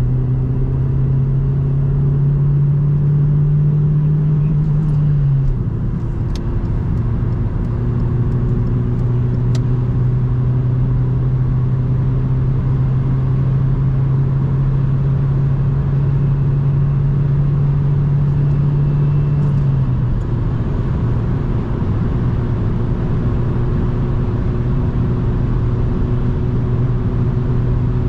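Opel Vectra B's 1.8-litre 16-valve four-cylinder petrol engine pulling at steady motorway speed, with tyre and road noise. The engine note holds a steady pitch, easing off briefly about five seconds in and again about twenty seconds in before picking up again.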